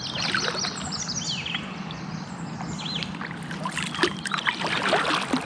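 Many birds calling, with short, high chirps and quick falling whistles that come thickest at the start and again near the end, over the water sounds of a kayak paddle.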